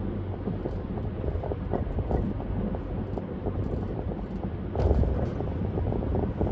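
Car driving on a highway: a steady low rumble of tyres and engine, with a louder surge about five seconds in.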